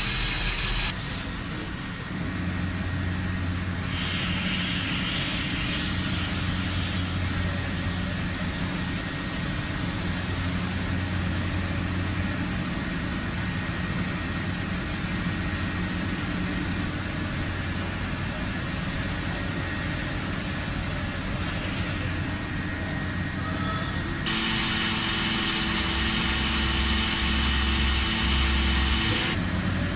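Industrial machines running with a steady mechanical hum and hiss, the sound changing abruptly several times as one machine gives way to another.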